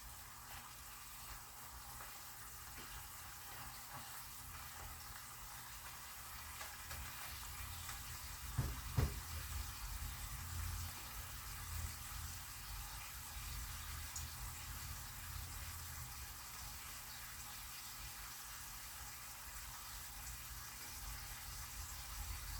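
Chicken pieces sizzling gently in oil in a frying pan as they brown, a soft steady hiss. A brief knock sounds about nine seconds in.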